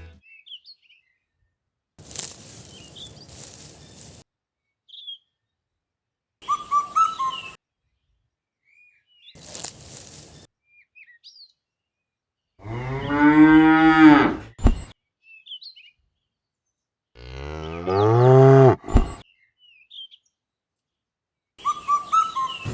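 A cow mooing twice: two long, drawn-out calls about four seconds apart, in the second half. Small bird chirps are scattered throughout, with a few short bursts of hiss in the first half.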